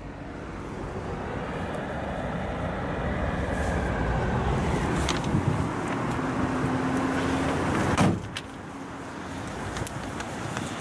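Vauxhall Cascada's electrically folding rear seats folding down: an electric motor whirring steadily for about eight seconds, then a clunk as it stops.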